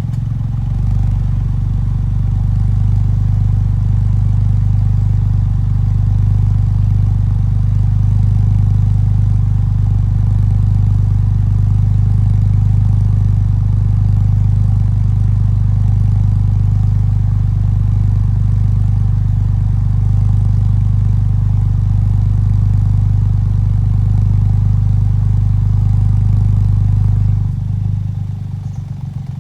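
Suzuki Alto Works three-cylinder engine idling steadily through a Kakimoto aftermarket muffler, a deep, even exhaust hum. It gets noticeably quieter about two seconds before the end.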